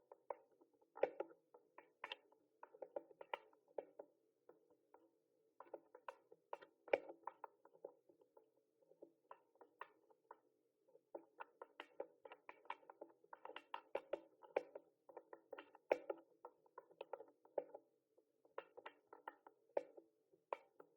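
Typing on a mechanical keyboard: keys clicking in irregular runs of quick strokes, broken by short pauses of about a second.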